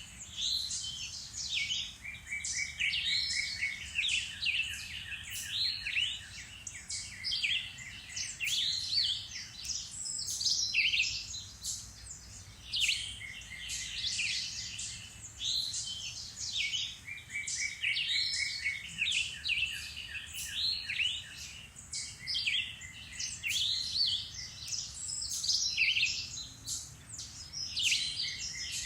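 Several songbirds singing at once in spring woodland, in a steady chorus of overlapping chirping phrases. Some phrases end in a quick run of evenly repeated notes.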